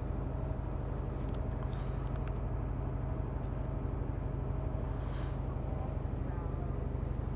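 An engine running steadily with a low, even rumble, with a few faint clicks over it.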